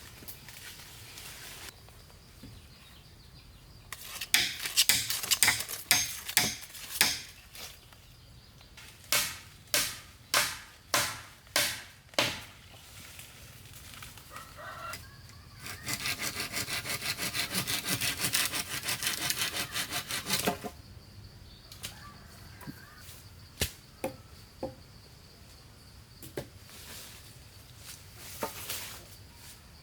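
A hand saw cutting wood: a run of separate strokes, then five evenly spaced strokes a little under a second apart, and about halfway through a few seconds of fast, continuous sawing.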